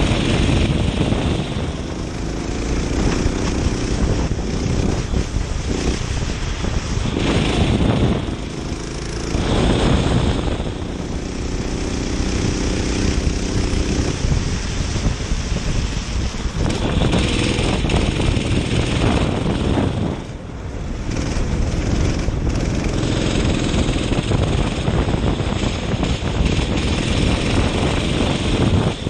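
Kart engine running at racing speed, its pitch rising and falling as the driver lifts and accelerates, with heavy wind noise on the onboard microphone. The engine drops off briefly twice, about a third of the way in and again later.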